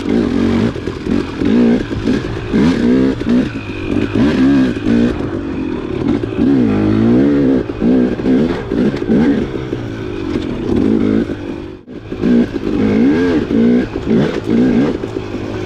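Dirt bike engine under way on a trail, its revs rising and falling over and over as the throttle is worked, with a brief cut in the sound about twelve seconds in.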